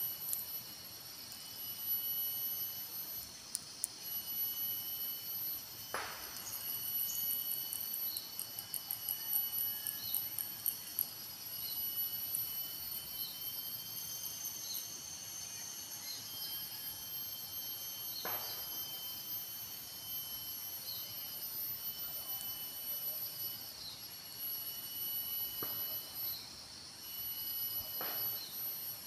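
A chorus of forest insects: several steady, high-pitched buzzing and trilling calls at once, some pulsing rapidly. Three sharp clicks stand out, at about six seconds, eighteen seconds and near the end.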